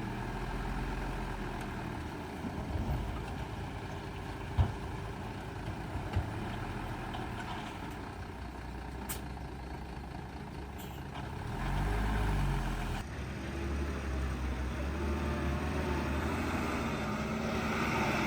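Heavy diesel engines of dump trucks and a bulldozer running on a fill site, with a few sharp knocks and two brief hisses. About twelve seconds in, an engine revs up and settles back down.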